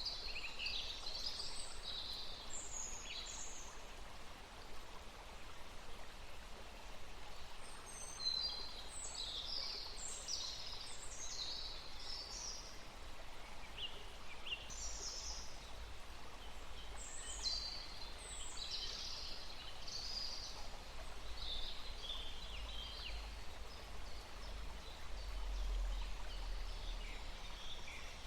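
Small songbirds singing in bouts of quick, high chirping and whistled phrases with short pauses between. Underneath is a steady faint hiss and a low rumble that swells about 25 seconds in.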